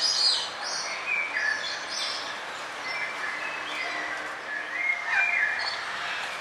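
Several songbirds chirping and trilling over a steady background hiss, with short bright notes, the loudest just at the start and about five seconds in.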